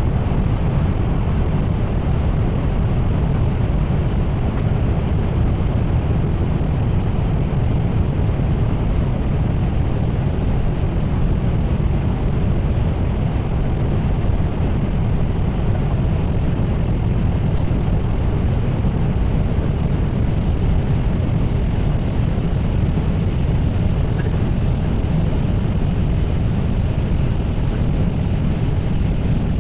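Steady cockpit noise of an Airbus A320 in flight: a constant rush of airflow and engine noise, heaviest in the low end, unchanging throughout.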